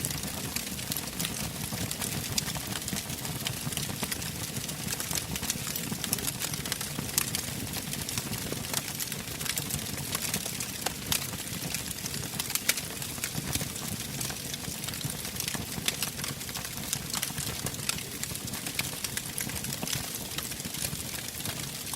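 Wood fire burning in a fireplace: a steady low rush with many sharp crackles and pops scattered throughout.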